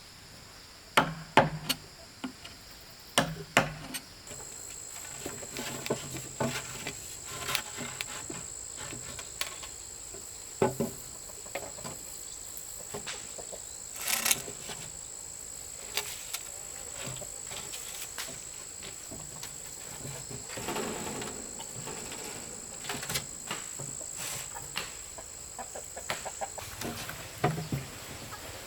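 A steady, high, thin insect drone sets in about four seconds in and stops shortly before the end. Scattered sharp knocks and taps sound through it, the loudest two near the start.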